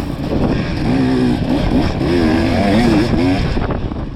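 Dirt bike engine running under changing throttle while riding, its pitch rising and falling repeatedly.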